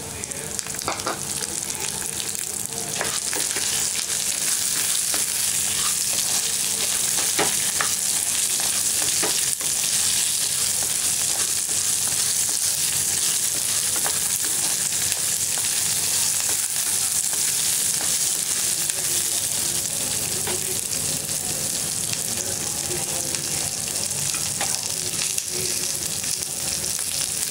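Sliced onion, chana dal, urad dal and dried red chillies sizzling in hot oil in a frying pan, a steady hiss that grows a little louder over the first few seconds. A wooden spatula stirs through the pan now and then, with small scrapes and clicks.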